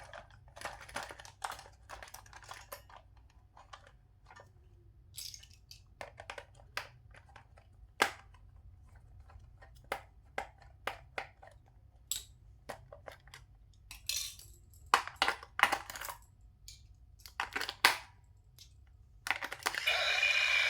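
Hard plastic toys and packaging being handled: scattered clicks, taps and light rattles. Near the end a louder, steady noisy sound with a faint tone starts.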